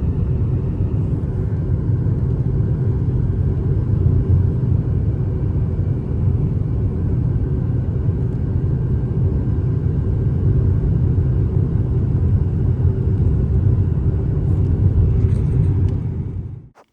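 Steady low rumble of a car driving on a mountain road: road and engine noise, cutting off suddenly near the end.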